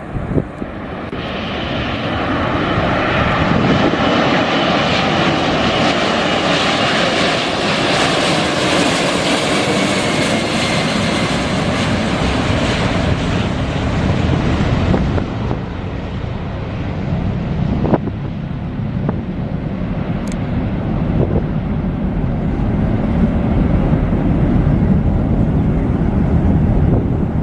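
Boeing 747-400's four jet engines at takeoff power as the jumbo passes close by. The noise builds over the first few seconds to a loud rumble with a strong high hiss. About fifteen seconds in the hiss fades, leaving a low rumble as the aircraft draws away.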